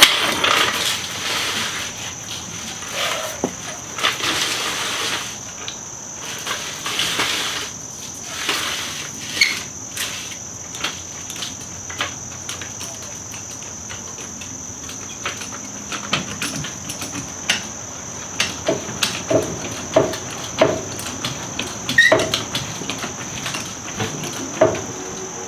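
A cricket trilling steadily on one high note, under scattered knocks, clanks and scraping noises from hands-on work.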